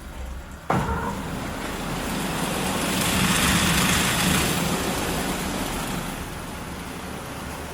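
Water jets of a WashTec SoftCare Pro Classic automatic car wash spraying onto a car. The spray cuts in suddenly about a second in, swells to its loudest around the middle, then eases to a steady hiss.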